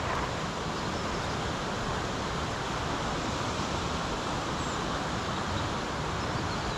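Fast-flowing river water rushing, a steady even noise.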